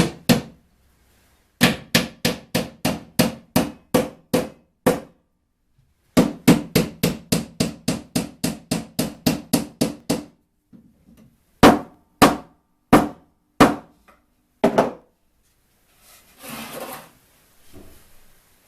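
Hammer driving nails into an 18 mm plywood box, in two long runs of quick strikes about three a second, then a few single blows. A short scraping rustle follows near the end.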